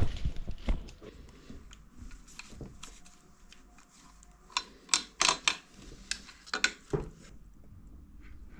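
Small metal engine parts and tools clinking and clattering as they are handled and set down on a workbench, in a handful of sharp clicks, several of them in quick succession past the middle.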